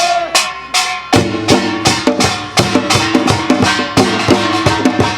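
Korean folk percussion playing a quick, driving rhythm of sharp drum strikes that starts about a second in, just after a held sung note ends.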